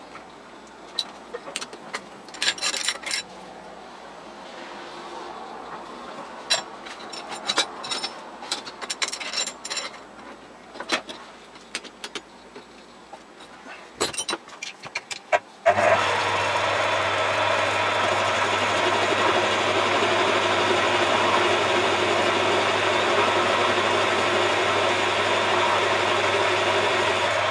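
Metal lathe winding down, then about fifteen seconds of metal clinks and knocks from tools and workpiece being handled; about sixteen seconds in the lathe switches on abruptly and runs steadily with a low hum.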